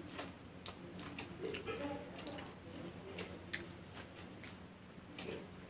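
A person chewing popcorn: faint, irregular crunches and clicks, over a steady low electrical hum.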